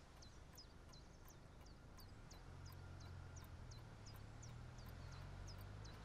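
Quiet room tone with a small bird chirping faintly and repeatedly, a short high falling note about two to three times a second. A low hum comes in about two seconds in.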